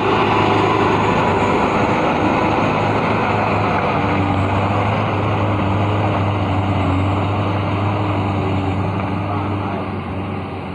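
Truck engine running hard at steady high revs under load as the truck climbs a slippery, muddy slope.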